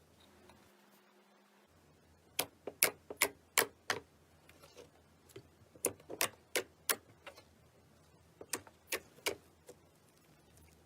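Slime being squeezed and poked, giving sharp, irregular clicks and pops in quick clusters, starting about two seconds in.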